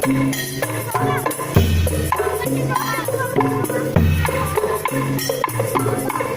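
Tongtek street percussion music: kentongan slit drums and drums playing a lively rhythm, with deep bass notes and a melody over it.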